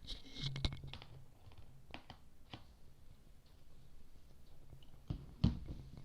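Scattered light clicks and taps of small metal parts being handled while a diesel fuel injection pump is assembled, with a louder knock about five and a half seconds in.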